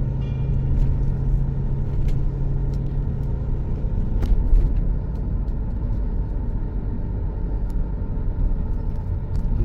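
Steady low rumble of a moving vehicle, with a faint steady hum and a few light clicks.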